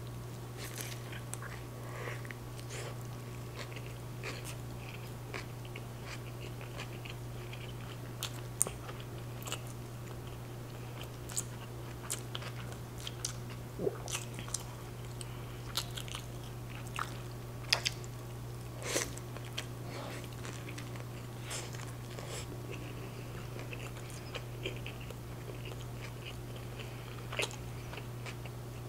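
Close-miked biting and chewing of a pork carnitas street taco on a soft corn tortilla: wet mouth clicks and smacks scattered throughout, with a steady low hum underneath.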